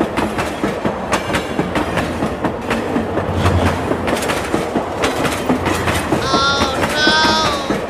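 Fairground kiddie mini train running on its small steel track, its wheels clicking rapidly and steadily over the rail joints. Two short high-pitched tones sound near the end.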